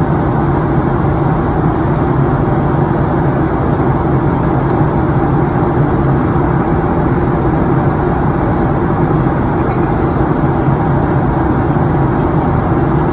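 Steady in-flight cabin noise of a Boeing 737-900ER, its engines and the rush of air over the fuselage heard from inside the cabin at a forward window seat. It is an even, unchanging low drone.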